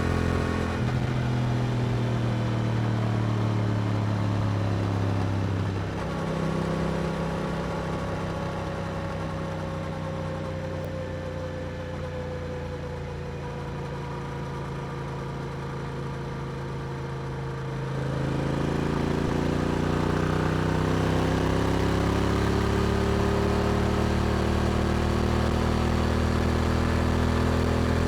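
Yamaha R7's 689 cc parallel-twin engine running through an Akrapovic exhaust while riding. At first it holds a steady note; about six seconds in the throttle eases and the note drops and slowly falls for around twelve seconds. About eighteen seconds in it picks up, rising in pitch and getting louder, then holds steady.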